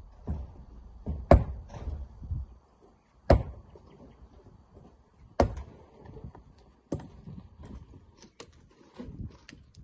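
Rock work: five sharp, hard knocks of rock being struck or dropped, spaced about one and a half to two seconds apart, with fainter clicks and clatter of stones between them.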